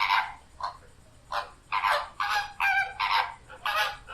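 Flamingo calls: a run of short, harsh, goose-like honks, about two a second.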